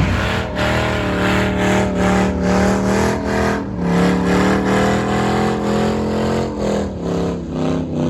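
Car engine held at high revs, its pitch steady with a slight waver, easing off briefly about six and a half seconds in.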